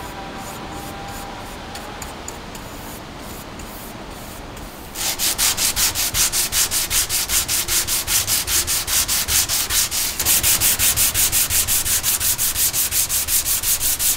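Sandpaper being worked by hand: a steady, quieter rubbing for about five seconds, then louder, rapid back-and-forth sanding strokes, about four or five a second.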